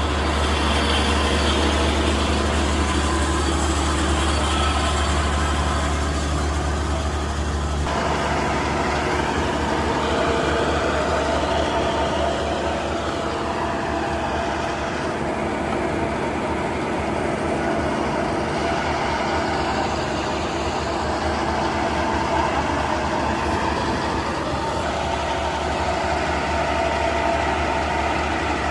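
Heavy diesel farm machinery (tractor and combine harvester engines) running steadily. A strong low drone gives way about eight seconds in to a rougher, more uneven engine sound.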